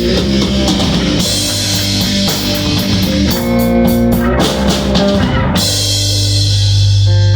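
Rock band jamming on electric guitar, bass and drum kit. About five and a half seconds in the drums stop and a low chord is left ringing.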